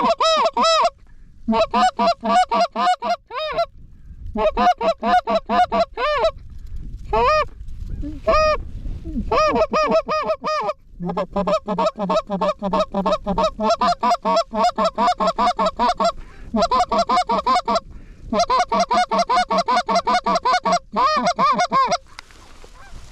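Canada goose honking and clucking, loud and close, in quick runs of several calls a second broken by short pauses.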